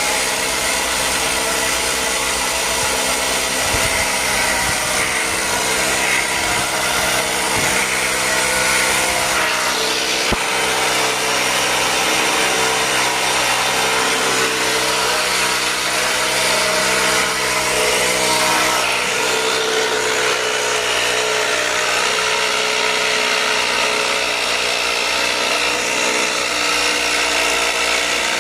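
A motor-driven machine running steadily throughout, with a constant hum and a broad hiss, then cutting off abruptly.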